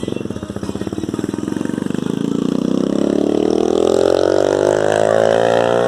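A motor vehicle engine running with a low, pulsing note, then accelerating from about two seconds in, its pitch rising steadily to the end.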